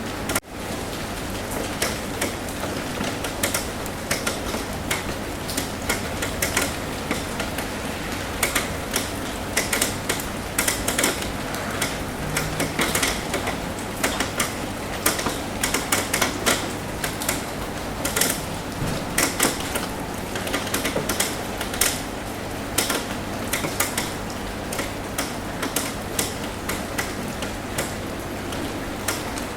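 Rain tapping on a roof: a steady hiss of rainfall with many irregular, sharp drop taps, thickest through the middle. There is a brief gap in the sound just after the start.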